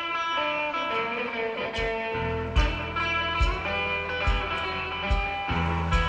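Live rock trio playing an original song: electric guitar notes ring out, then bass and regular drum beats come in about two seconds in.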